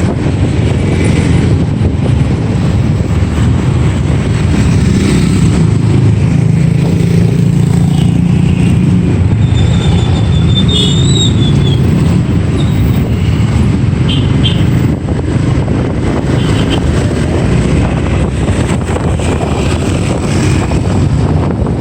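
Motorbike running along through city traffic: a loud, steady rush of engine and road noise, with a brief high tone about eleven seconds in.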